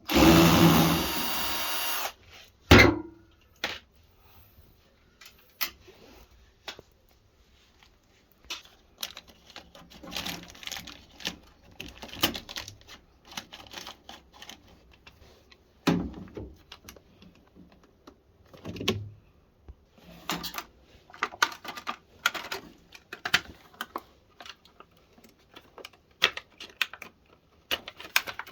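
A power tool's motor runs for about two seconds at the start. Then come scattered clicks, knocks and rattles of tools and parts being handled, with a sharp knock near the start and heavier thuds about halfway through.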